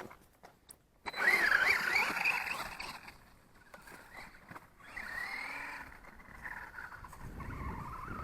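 Reely RC monster truck's electric motor and drivetrain whining as it is driven. The pitch swings up and down with the throttle, loudest from about a second in, then fades, and a slow rising whine comes back near the end.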